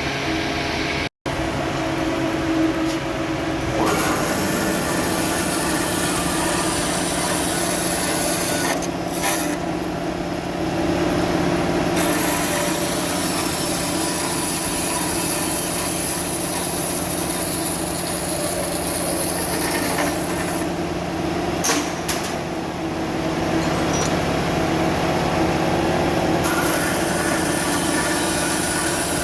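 Workshop machinery running steadily, with a rasping, scraping noise of tools working metal that changes character several times.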